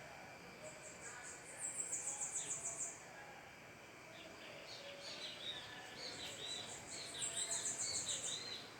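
A small bird singing: two high, fast trills about five seconds apart, with shorter chirps between them.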